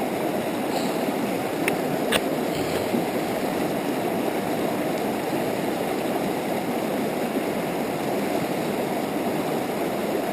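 A river rushing steadily, an even wash of flowing water; two sharp clicks about two seconds in.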